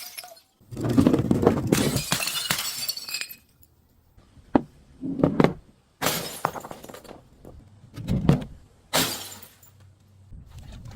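Glass bottles being smashed: a long crunching stretch of breaking glass about a second in, then several separate sharp shattering crashes over the following seconds.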